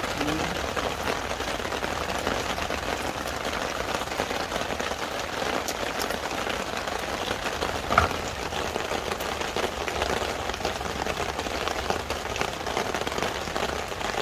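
Steady rain falling, with a single sharp knock about eight seconds in.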